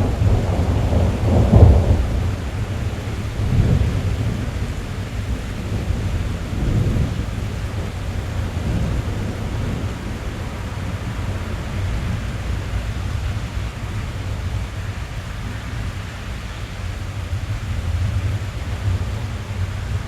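Rain falling on a car's roof and glass, heard from inside the cabin, with thunder rumbling strongly in the first couple of seconds and more weakly about 4 and 7 seconds in, then dying away into a steady hiss of rain.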